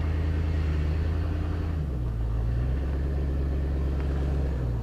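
Carbureted 351 Windsor V8 in a 1991 Ford F250 running at low revs as the truck creeps forward, a steady low engine note. The note dips briefly about two seconds in and again near the end.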